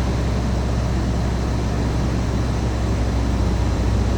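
Cessna 150's Continental O-200 four-cylinder engine and propeller running with a steady low drone, heard inside the cockpit with a constant rush of air noise over it.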